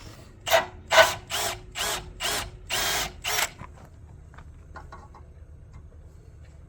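Power drill run in about seven short trigger bursts, spinning up and down each time, then a few light clicks.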